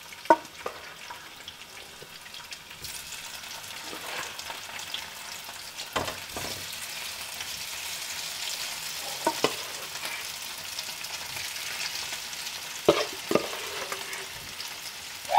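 Spice-coated potato chunks sizzling as they shallow-fry in sesame oil in a nonstick pan. The sizzle grows louder about three seconds in. A few sharp knocks come from the wooden spatula stirring against the pan.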